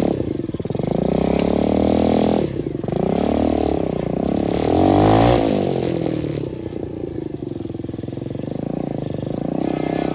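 125cc dirt bike engine revving up and down while riding: its pitch drops at the start and again about two and a half seconds in, climbs to its loudest peak around five seconds, then falls back to a lower, steadier run for the rest.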